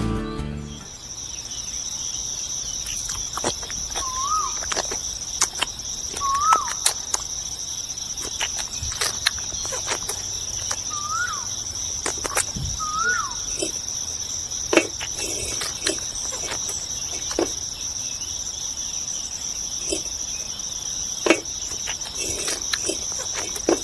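Steady high insect trilling, like crickets, with four short rising-and-falling bird chirps in the first half and scattered light clicks.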